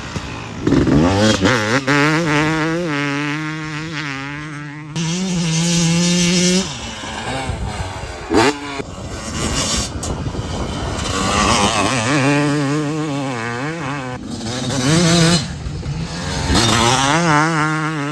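Two-stroke motocross bikes running at high revs, their pitch rising and wavering rapidly as the throttle is worked over the track. The sound cuts abruptly between passes several times, with a brief sharp rise and fall about eight seconds in.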